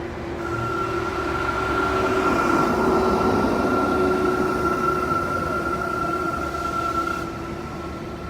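A train passing, building to its loudest in the middle of the pass and easing off toward the end, with a steady high whine held over most of it and a lower steady hum beneath.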